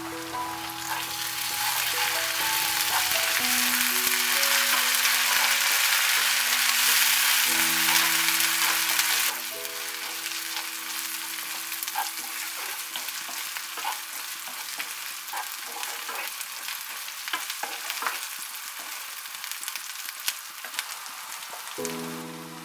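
Sliced onions, green chillies and coriander stalks sizzling loudly in hot mustard oil in a non-stick kadai for the first nine seconds or so. The frying then goes quieter, with a wooden spatula stirring and knocking against the pan. Soft background music with held notes plays underneath.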